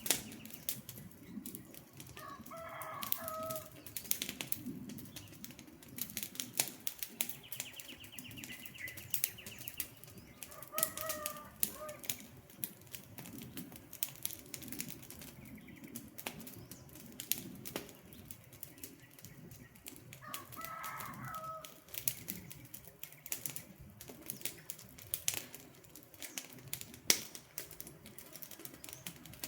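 Wood fire crackling and popping in rapid irregular snaps over a low steady rush of flames. A bird gives a short call three times, a few seconds in, near the middle and about two-thirds through, and a higher trill sounds briefly about a quarter of the way in.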